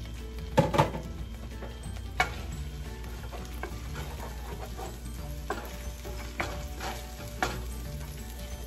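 Minced garlic sizzling in a hot nonstick frying pan while a wooden spatula stirs it, with several sharp knocks of the spatula against the pan, the loudest a double knock about half a second in.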